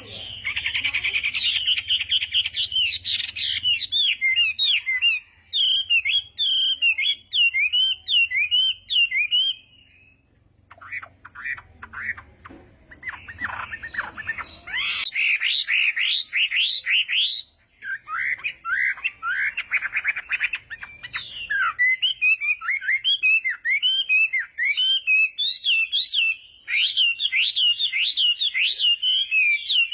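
Chinese hwamei singing: long runs of loud, rapid, varied whistled phrases, with a short break about ten seconds in and another near eighteen seconds.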